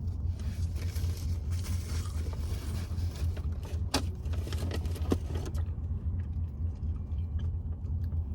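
Car running on the road, heard from inside the cabin: a steady low rumble, with a hiss that swells and fades over the first few seconds. Two sharp clicks come about four and five seconds in.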